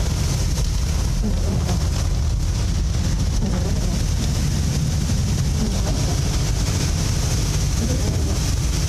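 Steady low rumble of a moving vehicle with a constant hiss over it, unchanging throughout.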